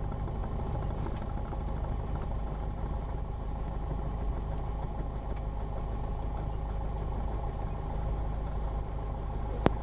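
Single-engine Cessna's piston engine idling steadily while the plane sits or taxis after landing, heard from the cockpit. A single sharp click comes near the end.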